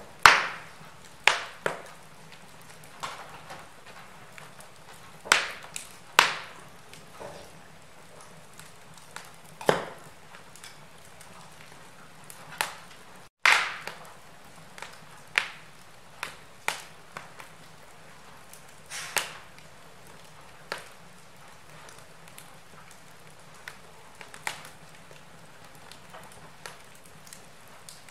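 Wood fire burning in a fireplace, crackling: irregular sharp pops and snaps every second or two over a soft steady hiss. The sound cuts out for a moment about halfway through.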